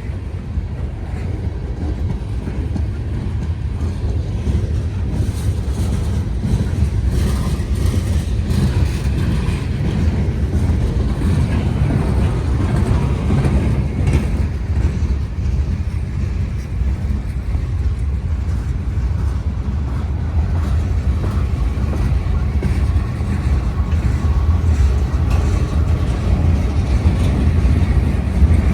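Union Pacific freight train's cars rolling past a railroad crossing: a steady low rumble with clicking of the wheels over the rail joints. A faint steady high tone joins it about three-quarters of the way through.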